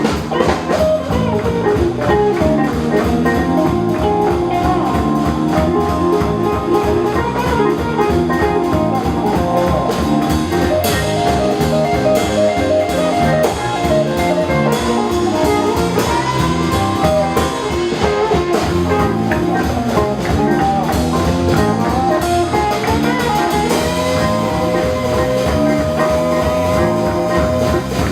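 Live blues band playing an instrumental break: a guitar takes the lead with held and bending notes over a steady rhythm section with drums.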